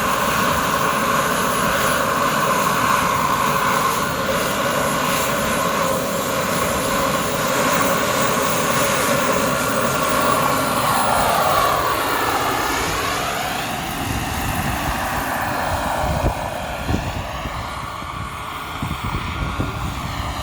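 Giant-scale RC Bell 429 model helicopter in flight: a steady high whine of its rotors and drive. About halfway through, the tone sweeps down and back up as it passes, then the sound fades. A few low bumps of wind on the microphone come near the end.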